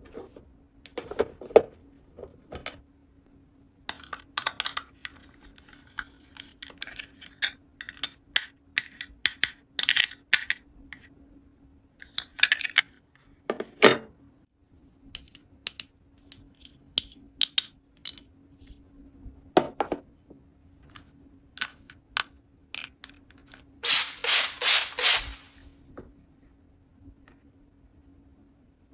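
Small plastic toy pieces being handled and set down: scattered clicks, taps and short rubbing scrapes. Late on comes a brief run of quick rubbing strokes, the loudest sound.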